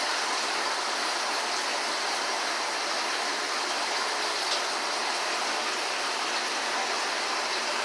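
Steady rushing hiss of aquarium water flow, with filter returns and overflows splashing into the tanks.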